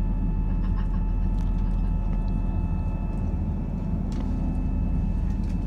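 Steady low rumble and hum of a moving vehicle heard from inside it.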